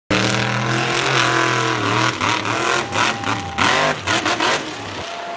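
Monster truck engine revving hard, its pitch falling and surging as the throttle is worked, with sharp cracks in between. It eases off near the end.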